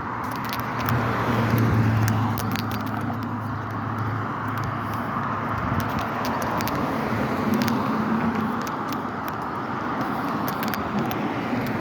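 Road traffic: cars passing on a street, a steady rush of tyre and engine noise. A low engine hum swells from about one to four seconds in.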